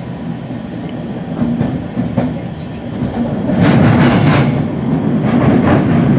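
West Coast Express commuter train in motion, heard from on board: a steady rumble with clicks and knocks from the wheels on the rails, getting louder about three and a half seconds in.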